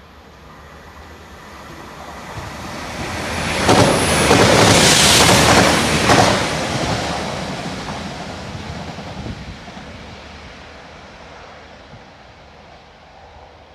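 A train passing by on the line: its rushing noise swells, is loudest for a couple of seconds, with a sharp clack at the start and end of that loudest stretch, then fades away.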